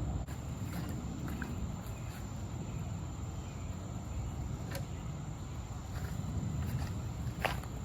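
Outdoor ambience: a steady low rumbling noise with a thin, steady high-pitched tone over it, and a few faint clicks and short chirps, more of them near the end.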